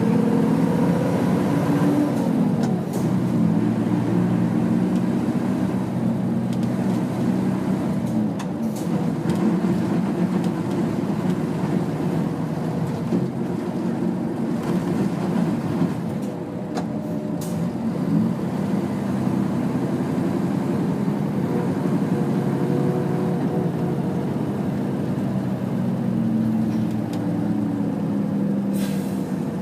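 Nissan Diesel UA city bus (KL-UA452KAN) engine running under way, heard from inside the cabin, its note falling and rising several times as the bus slows and picks up speed. Brief rattles or knocks come through at a few points.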